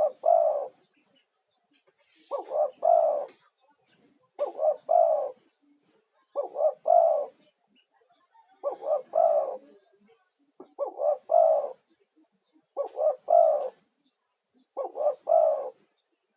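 A male spotted dove (tekukur) cooing steadily. It repeats a three-note phrase about every two seconds, eight times, and the last note of each phrase is the longest.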